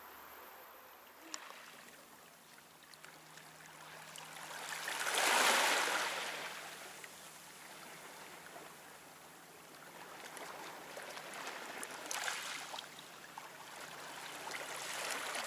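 Gusty wind rushing: one strong gust swells and fades about five seconds in, and a smaller one comes around twelve seconds.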